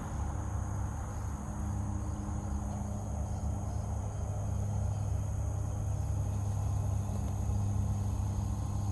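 Steady low rumble of road traffic, with insects trilling steadily at a high pitch.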